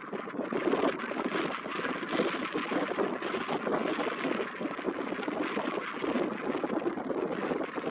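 Strong, gusty wind blowing over the microphone: a steady rushing noise that rises and falls, with crackling buffets throughout.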